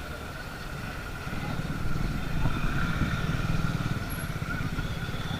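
Motorcycle engine running while being ridden, a steady low pulsing rumble that grows a little louder about a second and a half in.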